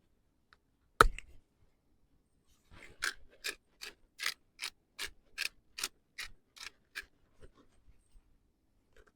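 A single sharp knock, then a run of about a dozen evenly spaced mechanical clicks, roughly two and a half a second, that stops after about four seconds.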